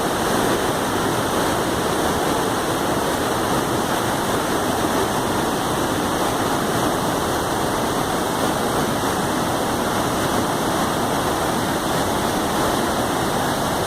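River waterfall, water rushing down in a loud, steady roar of white noise.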